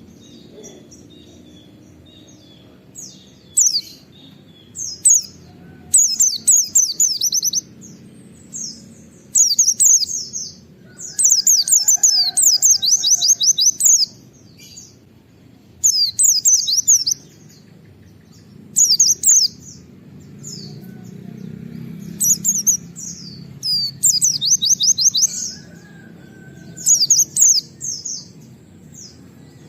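White-eye (pleci) singing in bursts of rapid, high-pitched repeated notes: the fast 'wit-wit' shooting phrases, called nembak, that keepers use to set other white-eyes singing. The bursts come one after another with short pauses between them.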